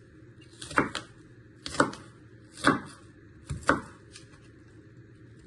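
Kitchen knife chopping a diced onion on a chopping board: four or five sharp cuts about a second apart, stopping about four seconds in.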